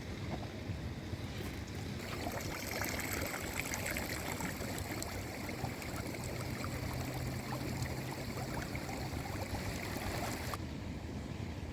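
Fish frying in hot oil in a pan: a steady sizzle with small crackling pops. It grows brighter about two seconds in and drops back near the end.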